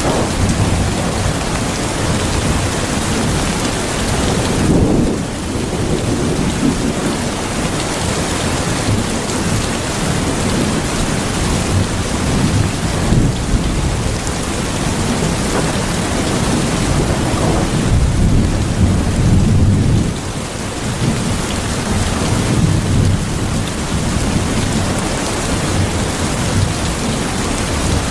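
Steady heavy rain with low rumbles of thunder. The rumbles swell most strongly about five seconds in and again around eighteen to twenty seconds in.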